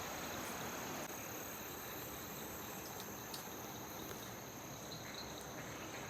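Steady chorus of insects, a continuous high-pitched shrill at two pitches, over a faint even rush of flowing water.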